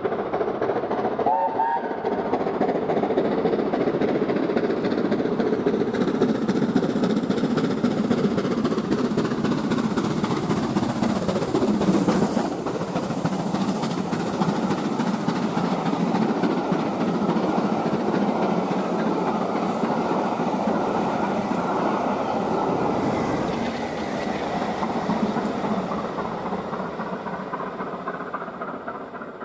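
Steam locomotive 70013 "Oliver Cromwell", a BR Standard Class 7 "Britannia" Pacific, running with its train, wheels clattering over the rail joints. The sound is loudest about twelve seconds in and fades away near the end as the train draws off.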